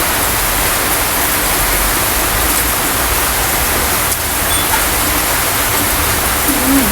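Heavy rain in a storm wind: a steady rushing hiss, with a low rumble underneath.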